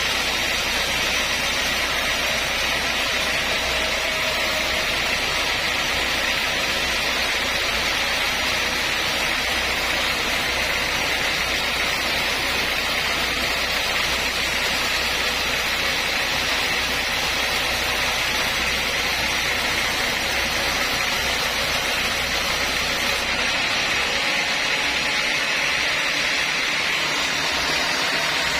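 Sawmill saw running steadily, a loud, even noise through a mahogany cut. A low hum under it drops away near the end.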